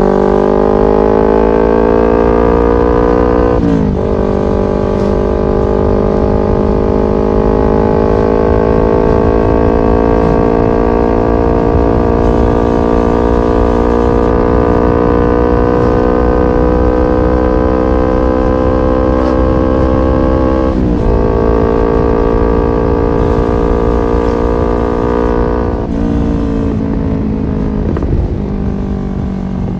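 Kawasaki Ninja 250 FI parallel-twin engine through an R9 H2 SS aftermarket exhaust, ridden under acceleration. The note rises, drops with a gear change about four seconds in, climbs slowly and steadily through the next gear, and shifts again after about twenty-one seconds. Near the end the rider eases off and the note falls.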